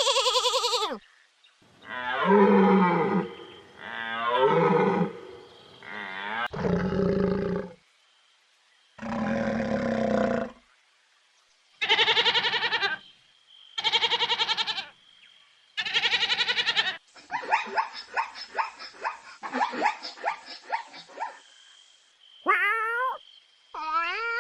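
A string of separate animal calls, each about a second long with short pauses between, followed near the end by a quick run of rapid, pulsed calls.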